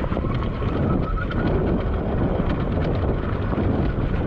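Wind buffeting an unshielded action-camera microphone in a steady low rumble while riding an electric dirt bike on a trail. Scattered clicks and rattles from the bike run through it, with a faint high whine early on.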